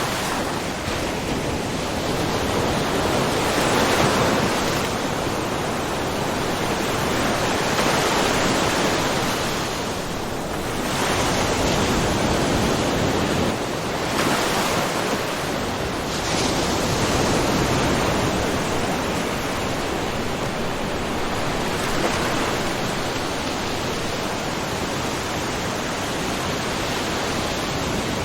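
Small ocean waves lapping and splashing against a rocky shore, a steady wash that swells and eases every few seconds.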